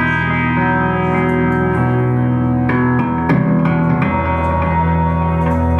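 Instrumental passage of a song played live, led by guitar holding sustained chords, with a few sharper plucked notes about halfway through.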